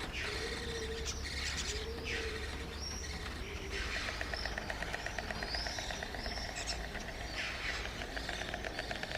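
Spotless starlings calling: high whistled slurs over a fast, even buzzing rattle that starts about four seconds in, with a low arched note repeated about once a second in the first few seconds.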